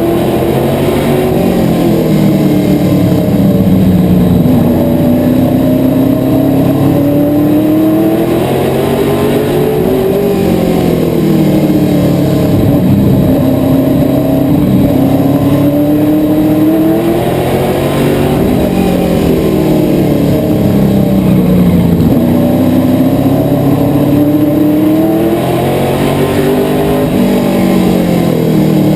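Asphalt modified race car's engine at racing speed, loud and steady, its pitch climbing on the throttle and then dropping as it lifts, over and over about every six seconds.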